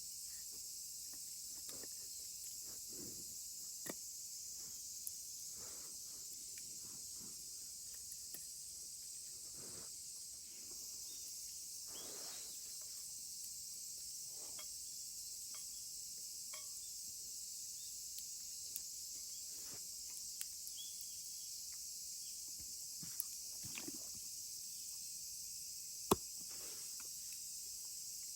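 Steady, high-pitched chorus of summer insects, with scattered small clicks and knocks over it and one sharper snap near the end.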